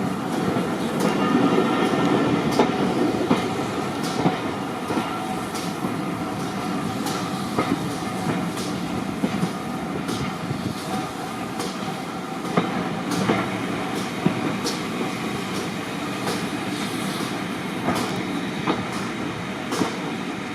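Railway carriage running along the track, a steady rumble with the wheels clicking over rail joints roughly once a second.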